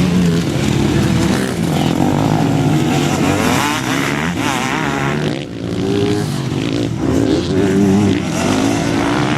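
Several motocross bikes running at once, their engines revving up and falling back with overlapping, shifting pitches. The sound dips briefly a little past halfway.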